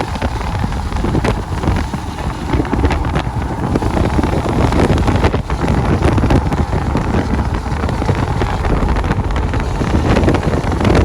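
Strong wind buffeting the microphone: a loud, gusty rumble that never lets up.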